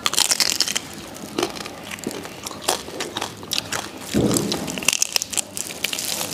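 Crisp roast suckling-pig skin being bitten and chewed close to the microphone: a dense run of sharp, crackly crunches, with a heavier, fuller crunch just after four seconds in.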